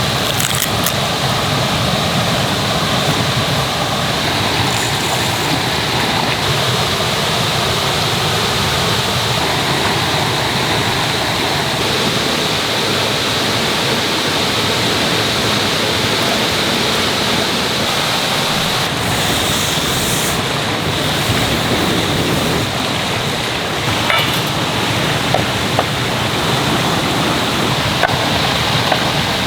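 Mountain stream rushing steadily over rocks, with a few light knocks near the end.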